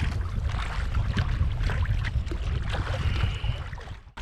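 Kayak paddling on open water: paddle splashes and dripping water over a steady low rumble of wind on the microphone. A brief high tone sounds about three seconds in, and the sound cuts out just before the end.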